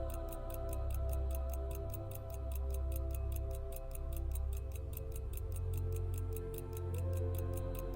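Background music with slow sustained tones and bass, over a mechanical pocket watch ticking steadily at about five ticks a second.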